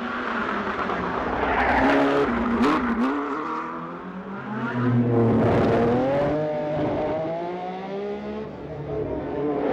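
1970s Formula 1 racing cars passing at speed, their engine notes swelling and dipping in pitch as they go by. About halfway through, one car's note climbs steadily in pitch as it accelerates.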